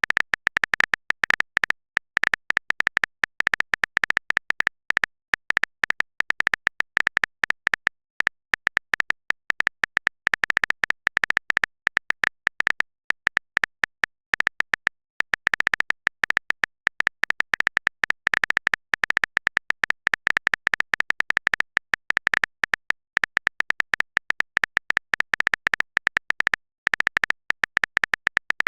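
Typing sound effect for on-screen text: a rapid, irregular stream of short clicks, each with a high tone in it, going on almost without pause, broken by a couple of brief gaps.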